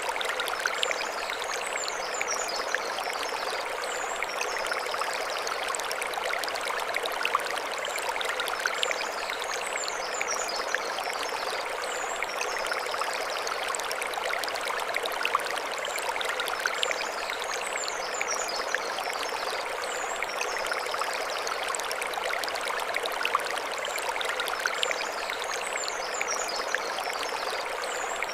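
Mountain stream running over stones, a steady rushing and splashing. High chirping calls recur over it in the same short pattern about every eight seconds.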